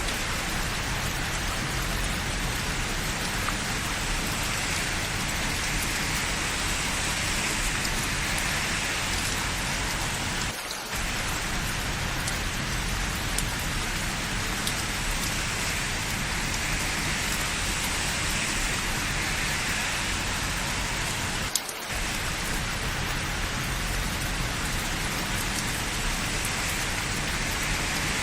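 Steady rain falling, an even hiss with no rhythm, briefly dipping twice, about 11 and 22 seconds in.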